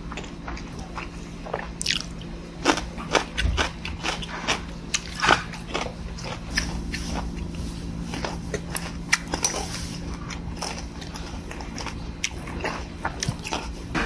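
A person chewing and biting food close to a clip-on microphone, with a run of sharp, crisp crunches in the first half that thin out to softer chewing. A steady low hum sits underneath.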